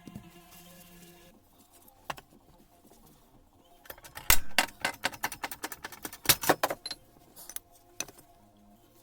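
A quick run of sharp metallic clinks and rattles, like small metal parts or tools being handled and set down on a workbench. A single clink comes a couple of seconds before the run and another just after it.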